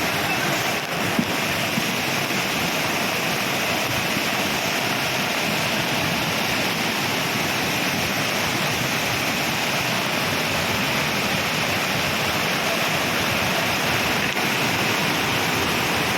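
Floodwater rushing in a steady, unbroken roar of water.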